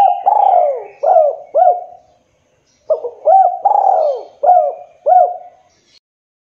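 Spotted dove (tekukur) cooing: two phrases of four or five arching coos each, about a second apart. Faint higher chirps of small birds sound behind.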